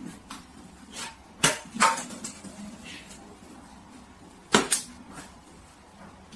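A handful of sharp knocks and clatters: one about a second in, two more soon after, and a close pair a little past the middle.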